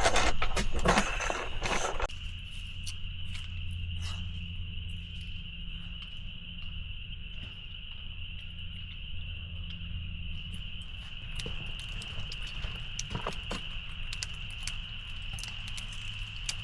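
A steady high-pitched chorus of outdoor night creatures, like insects or frogs calling together. Over it comes a loud rustling burst in the first two seconds, then scattered light taps.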